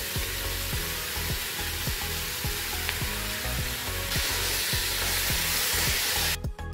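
Onions and capsicum sizzling in hot oil in a wok while sauce is stirred through them with a spatula. The sizzle gets louder about four seconds in and cuts off suddenly near the end.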